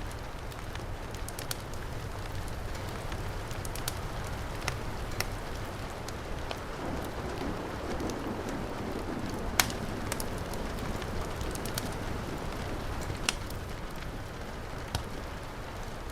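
Heavy rain pouring steadily with a low rumble, mixed with a wood fire crackling: sharp pops scattered through, the loudest about ten seconds in.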